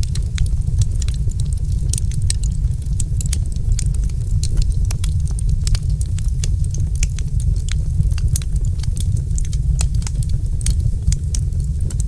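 Wood fire crackling in a fireplace, with dense, irregular sharp pops and snaps over a steady low rumble.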